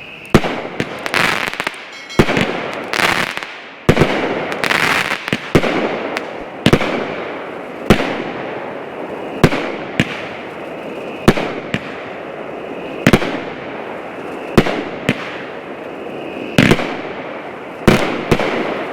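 Elite Fireworks H-Town Madness, a 16-shot 200-gram cake, firing: sharp shots about every second and a half, each followed by its break with crackle.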